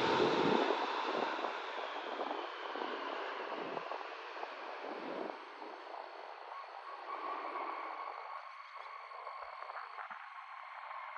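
Jet airliner noise fading away after a close pass: the engine noise thins and drops over several seconds, and a faint steady high whine is left from about seven seconds in.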